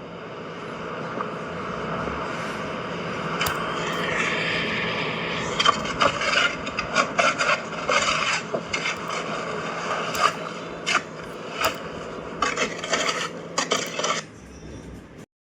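Scraping and rubbing over a steady low hum, with a run of sharp knocks and clanks from about six seconds in; it cuts off suddenly near the end.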